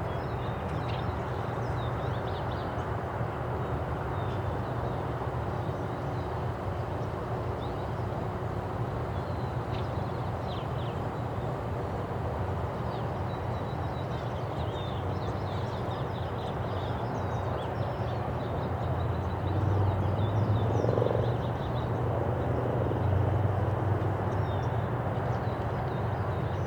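Outdoor park ambience: a steady low rumble with many small, faint bird chirps over it. The rumble swells about twenty seconds in, then eases again.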